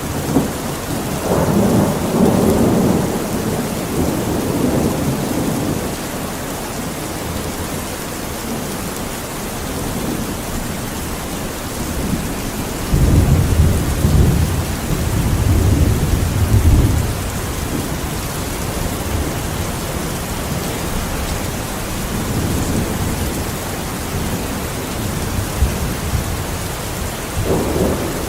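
Steady rain with rolling thunder: low rumbles swell in the first few seconds, and a heavier deep roll comes at about the middle, lasting some four seconds.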